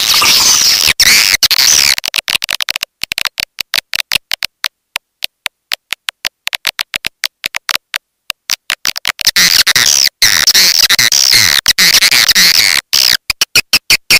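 Swiftlet lure call: dense, shrill twittering chirps that break off about two seconds in into a long run of rapid clicks. The twittering returns about nine seconds in, then gives way to rapid clicks again near the end.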